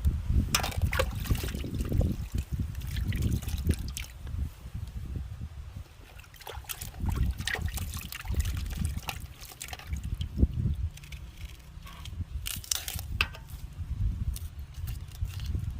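Water trickling and sloshing, with scattered sharp knocks and splashes of handling.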